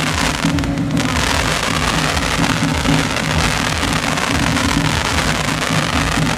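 Aerial fireworks barrage: rapid launches and bursts run together into a dense, unbroken crackle of pops.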